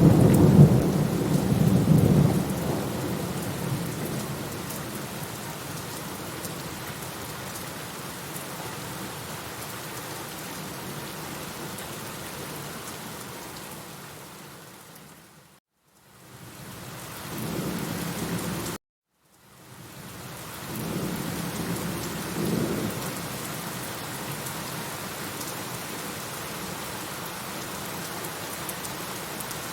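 Steady rain with rolling thunder. The thunder rumble is loudest at the start, and another rumble comes about two-thirds through. Around the middle the sound fades out briefly, returns, then cuts out abruptly for a moment before the rain resumes.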